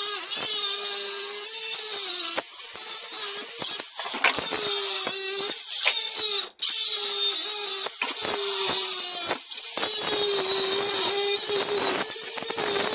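Handheld electric power tool running under load in long stretches, its motor pitch sagging and recovering as it bites, with scattered clicks. It stops briefly about six and a half seconds in.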